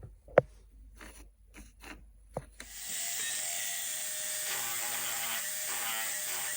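A series of sharp mechanical clicks over the first couple of seconds, two of them loud, then a steady hiss with faint tones from about three seconds in.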